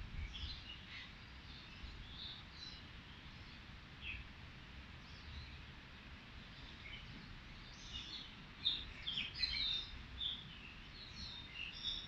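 Birds chirping: scattered short, high chirps and calls, busiest and loudest about eight to ten seconds in, over a low steady background rumble.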